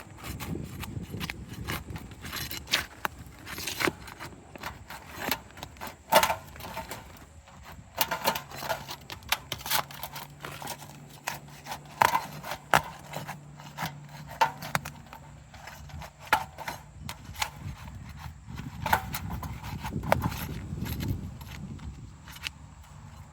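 Hand tools working on asphalt roof shingles during a repairability test, as a roofer breaks their seal and lifts them to see whether they can be repaired without damage: irregular scrapes, clicks and knocks. A low steady hum joins about eight seconds in.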